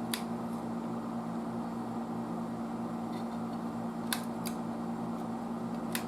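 Steady electrical hum on the workbench with a few light sharp clicks of small parts being handled: one just after the start, two close together about four seconds in, and one near the end.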